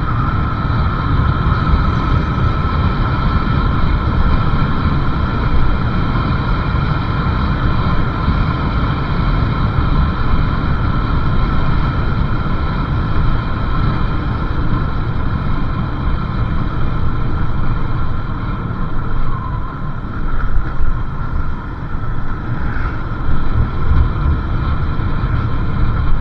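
Motorcycle riding along a road: a steady engine drone under heavy wind rumble on the microphone, getting a little more uneven in the last third.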